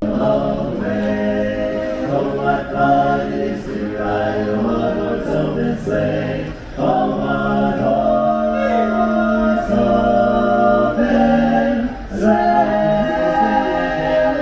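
A cappella choral singing, several voices holding notes together in chords without instruments.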